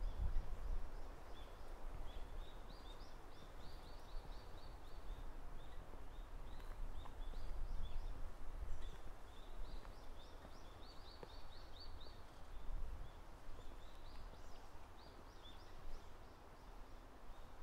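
Birds chirping in short runs of quick, high, repeated notes, again and again, over a steady background hiss and a low rumble.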